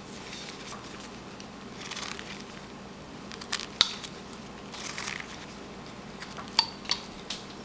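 Hand-carving cuts in wood: a carving blade slicing off small chips and shavings, heard as short scraping strokes with a few sharp clicks.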